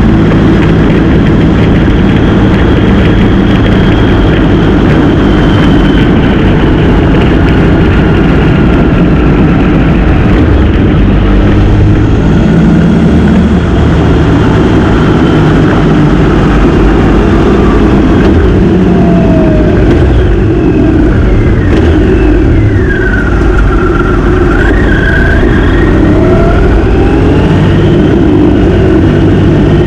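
Motorcycle engine running at road speed under a loud, steady rush of road noise, with the engine pitch dipping and climbing again about two-thirds of the way through as the revs change.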